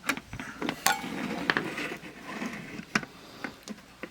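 Scattered light clicks, taps and clinks of small plastic and metal parts being handled while a digital multimeter is taken apart, a few sharp ticks among a soft rattle.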